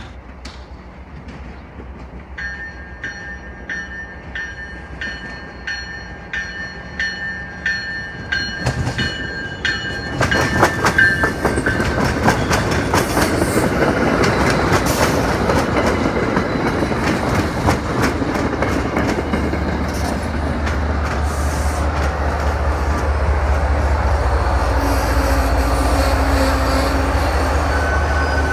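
MBTA commuter train passing close by. A bell rings about twice a second as it approaches. Then the bi-level coaches' wheels clatter over rail joints with some wheel squeal, and near the end comes the low rumble of the HSP-46 diesel locomotive pushing at the rear.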